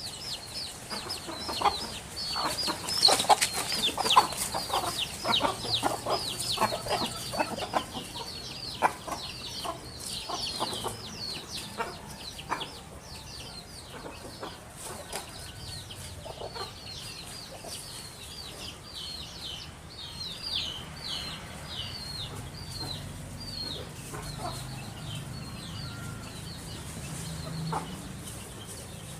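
Birds calling: many short, high, down-slurred chirps in quick succession, busiest in the first dozen seconds and thinning out after, with some lower calls among them.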